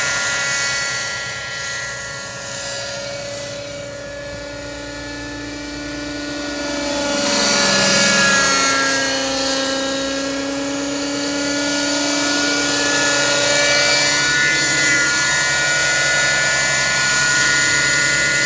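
JR Air Skipper 50 radio-control helicopter in flight, its two-stroke glow engine and rotors making a steady high whine. It grows louder about eight seconds in, with a slight drop in pitch, then holds steady.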